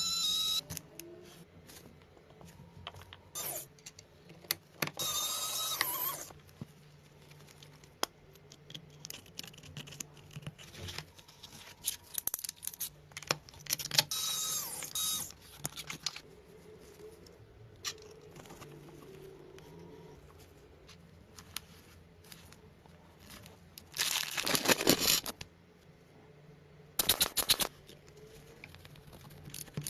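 Small parts of a miniature V8 engine model being handled and fitted: irregular clicks, scrapes and short rustling bursts.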